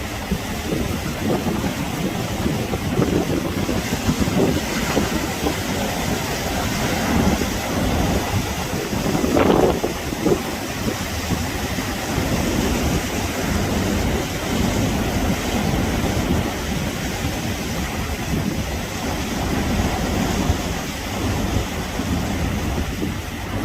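Sea waves surging and breaking, with wind buffeting the microphone. There is a louder surge about nine seconds in.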